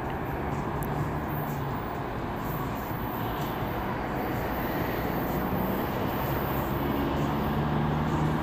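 Locomotive-hauled NJ Transit commuter train running along the platform: a steady rumble of wheels on the rails with a low, wavering hum, growing slightly louder toward the end.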